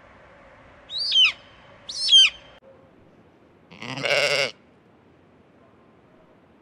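Two short, sharply falling bird calls about a second apart. After an abrupt change in background, a single sheep bleat with a wavering pitch, under a second long.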